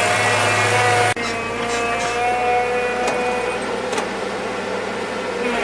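A motor running at a steady pitch, with an abrupt break about a second in.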